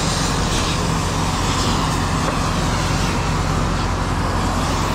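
A vehicle engine running steadily, with a constant low hum under a broad even rush of noise.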